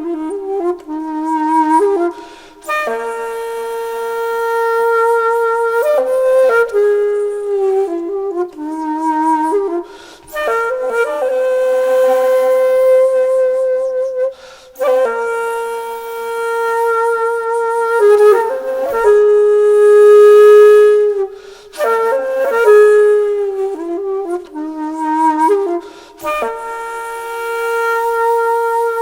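Solo wind-instrument music: a slow melody of long held notes, several with vibrato, in phrases separated by short pauses.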